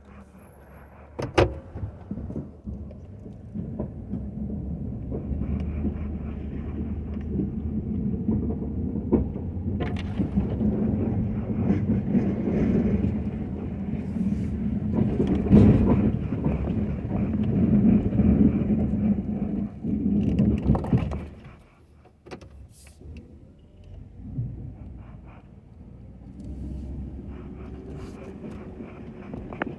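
Ford F-250 pickup truck with a snow plow running and working, its engine hum under a rough rumble. A sharp click comes about a second in, the rumble builds for about twenty seconds, then drops off sharply and the truck runs quieter.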